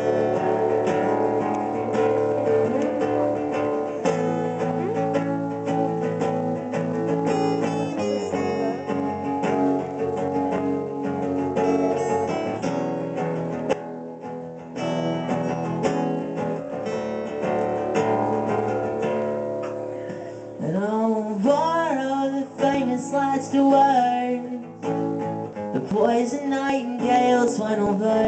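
Live band music led by strummed acoustic guitar, playing the song's opening; a singing voice comes in about twenty seconds in, with no words yet.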